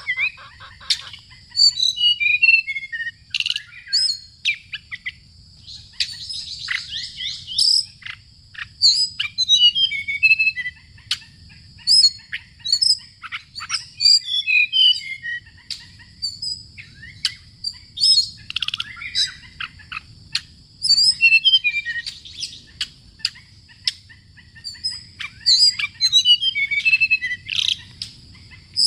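A songbird singing over and over: short bright phrases of quick notes stepping down in pitch, repeated every second or two, over a steady high-pitched whine.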